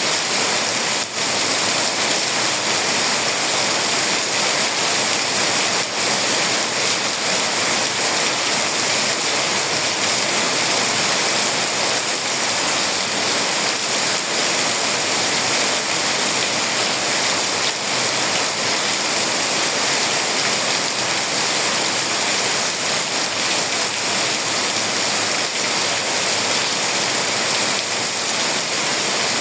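Rain falling steadily, a continuous even hiss of drops with no let-up.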